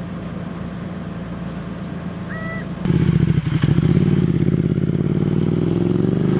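A vehicle engine running nearby, getting clearly louder about three seconds in.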